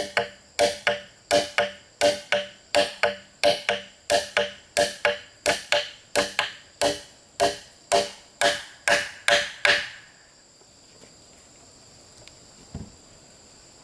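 Bamboo being chopped: rapid, even strikes about two a second, each with a short ringing tone, stopping about ten seconds in. Insects buzz steadily throughout.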